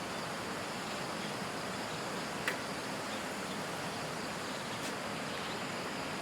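Steady outdoor background hiss, with a faint tick about two and a half seconds in and another near five seconds.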